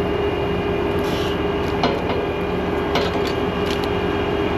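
Large John Deere farm tractor's diesel engine running steadily at a constant speed, with a couple of short sharp clicks about two and three seconds in.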